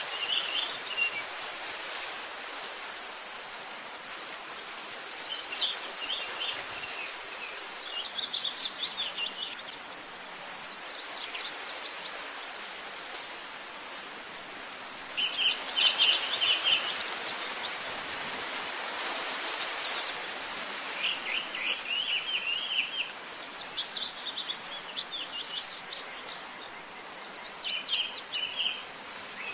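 Small birds singing in short bursts of quick high chirps, a phrase every few seconds, over a steady hiss of outdoor background noise.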